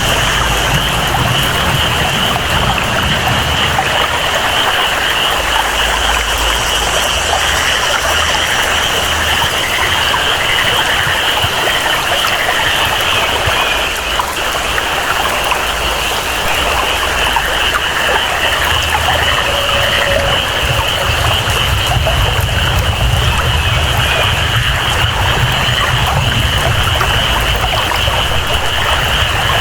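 Tropical rainforest ambience: steady rain and flowing water under a continuous high-pitched jungle chorus, with a low rumble of water that fades for a stretch in the middle and comes back.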